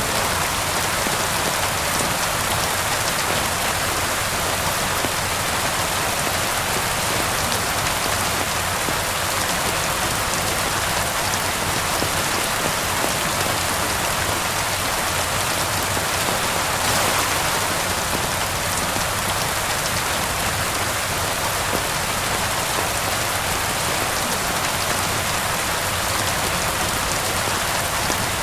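Steady rain falling and pattering on surfaces, an even hiss with no lulls.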